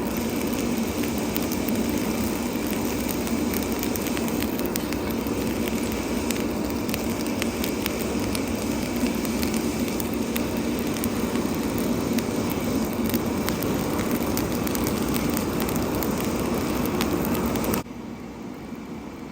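A forge fire under a strong air blast, running steadily with fine crackling throughout. The sound drops abruptly to a lower level about eighteen seconds in.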